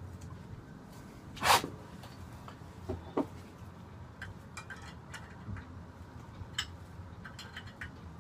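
Small tool clicks and knocks of a wrench tightening the fuel line fitting at the fuel injector of a Yanmar SB12 diesel, with one louder brief rustling burst about a second and a half in.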